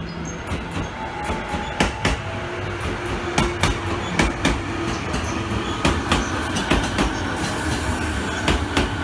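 Electric commuter train running on the rails: a steady low rumble with many irregular wheel clacks over the track.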